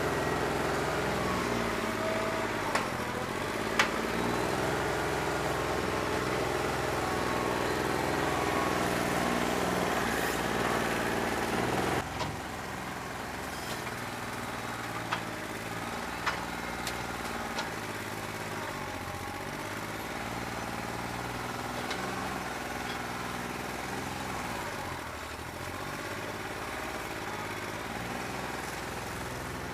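New Holland 1320 tractor's three-cylinder diesel running rough on a bad injector, not firing cleanly on one cylinder. Its engine speed rises and falls, with a few clanks. The sound drops suddenly to a lower level about twelve seconds in.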